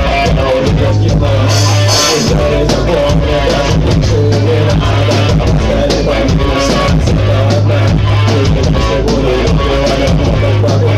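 A rock band playing live: electric guitar, bass and drum kit, loud and full, with a low bass note held in stretches of about two seconds.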